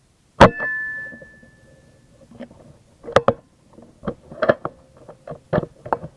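A single loud gunshot crack about half a second in, with a short ringing tone fading after it. It is followed by a string of about ten sharp clicks and knocks, typical of a gun being handled and reloaded.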